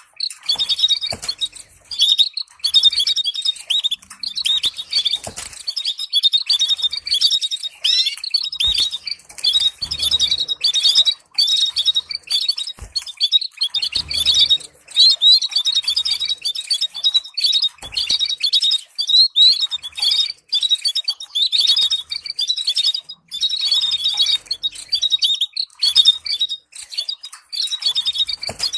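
Canary singing continuously in rapid trills and chirps, a training song of the stimulating trill kind used to teach canaries to sing. A few brief low thumps come through at intervals.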